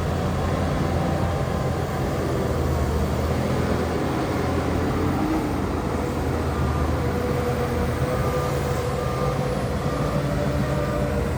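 Heavy diesel earthmoving machinery running steadily under load. From about halfway a short high beep repeats a little under twice a second.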